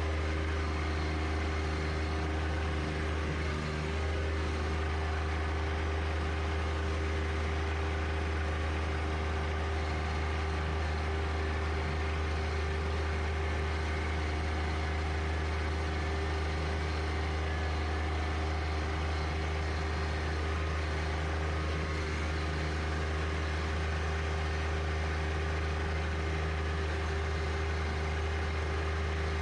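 John Deere 1025R compact tractor's three-cylinder diesel engine running steadily, a constant low drone.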